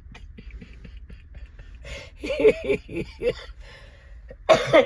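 Indistinct voices in the middle, over a steady low rumble, then a short, loud vocal sound near the end.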